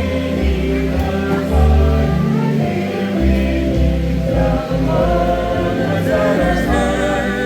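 Gospel-style choral music: a choir singing over a bass line.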